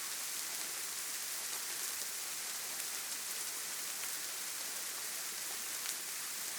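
Steady rain falling: an even hiss with a few faint drop ticks here and there.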